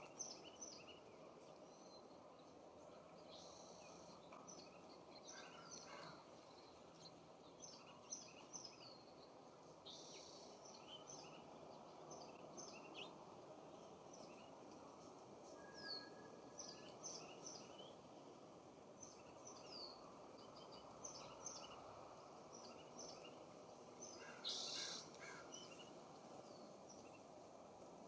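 Faint outdoor birdsong: many short, high chirps that sweep downward, repeated steadily over a low background hiss, with a single louder, harsh call about 24 seconds in.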